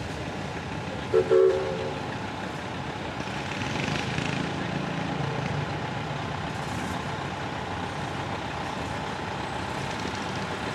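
An engine running steadily, with two short, loud toots about a second in.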